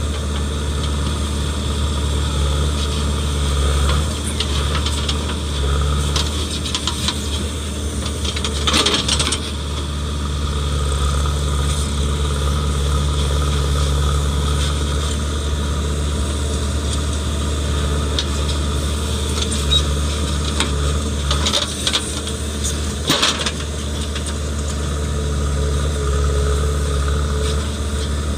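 JCB 3DX backhoe loader's diesel engine running steadily under load, with a few loud clanks and rattles: one about a third of the way in and a pair near two-thirds through.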